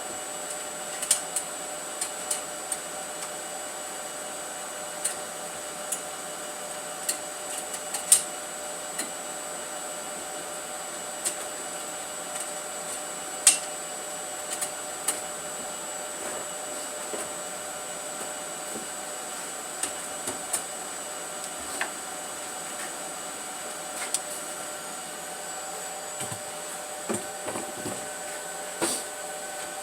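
A steady mechanical hum with several faint held tones, over which come scattered sharp clicks and taps of tools and metal parts being handled.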